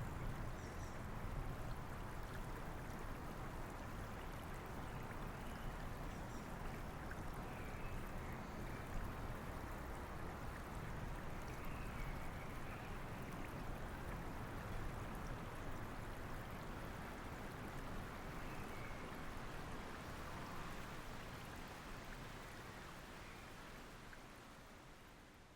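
Steady rain and a flowing river making an even, continuous rushing of water, fading out over the last few seconds.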